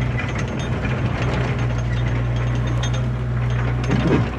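Yanmar B37 mini excavator running with its diesel engine droning steadily, over a dense, irregular clanking and rattling from the machine's metal parts.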